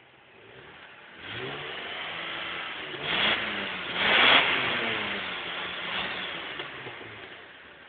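A 1982 Toyota Celica Supra's straight-six engine being revved. It climbs about a second in, is blipped sharply twice, then falls back slowly toward idle.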